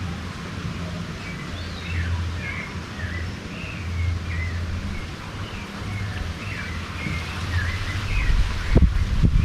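Birds chirping: many short, quick calls over a low steady rumble, with wind buffeting the microphone near the end.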